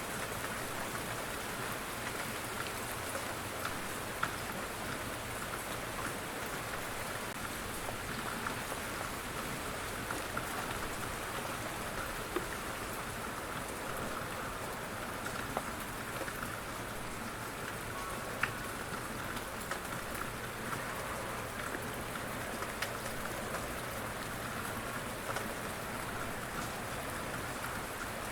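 Steady rain falling, with a dense hiss of drops and individual drops ticking on surfaces now and then.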